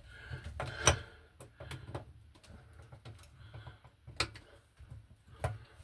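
Hand screwdriver working at stripped screw heads: irregular metallic clicks and taps as the bit slips and catches, the sharpest about a second in and twice near the end.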